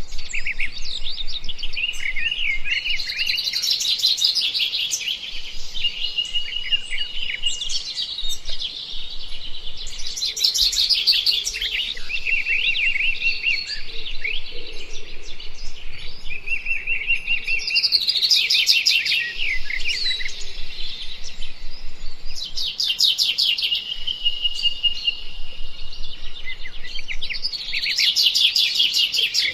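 Birds chirping and chattering, several calls overlapping, with bursts of fast trilling every few seconds.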